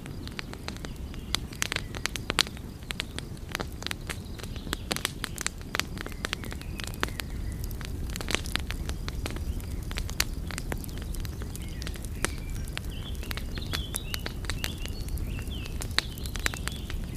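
Wood fire crackling, with frequent sharp pops and snaps over the low, steady rumble of the flames. In the last few seconds, faint high wavering chirps sound over the crackle.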